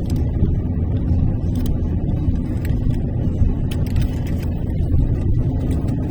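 A car's road and engine noise heard inside the cabin while driving on the highway: a steady low rumble.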